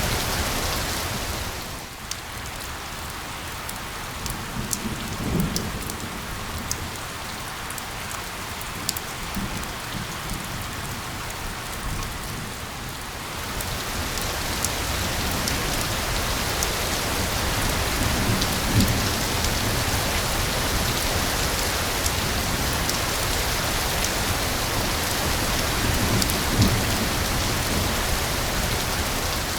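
Steady rain falling, with sharp individual drop ticks over the dense hiss and a few soft low rumbles. It is a little quieter for the first third, then fuller again.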